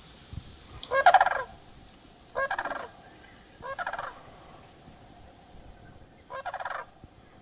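A bird calling four times: short, rapid rattling calls about half a second each, the first and loudest about a second in, the last near the end.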